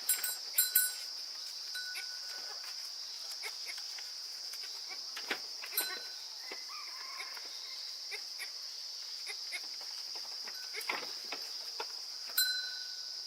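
Steady high-pitched insect drone, with scattered light clicks and rustles and a faint animal call about seven seconds in.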